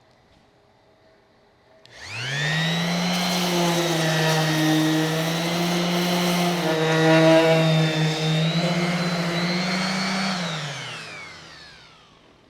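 A handheld electric sander on an aluminum fuel tank starts about two seconds in. It spins up to a steady whine and runs for about eight seconds, wavering slightly in pitch. Then it is switched off and winds down, its pitch falling away.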